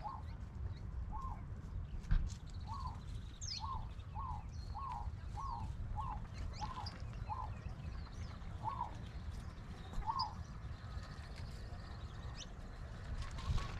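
A bird repeating a short call about a dozen times, quickest at about two calls a second in the middle and then slowing to two spaced-out calls, with fainter high chirps from other birds. There is a steady low rumble underneath.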